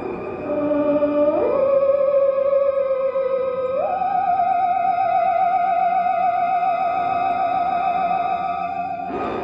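Theremin melody with a wavering vibrato: it slides up to a higher note about a second and a half in, sags slightly, then slides up again and holds a long wobbling note.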